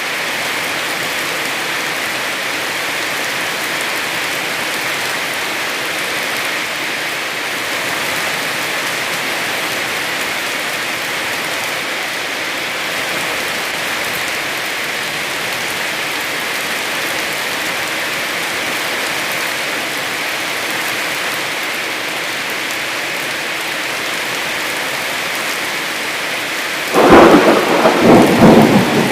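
Heavy rain falling steadily as an even hiss. Near the end a sudden loud clap of thunder breaks in and rumbles on, much louder than the rain.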